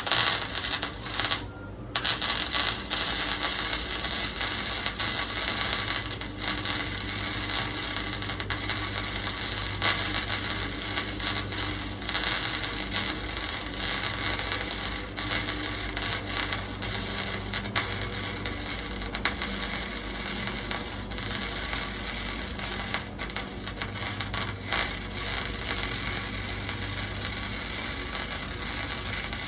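Arc welder crackling and sizzling steadily while welding up a gap in a truck's sheet-metal floor, with a brief break about a second and a half in.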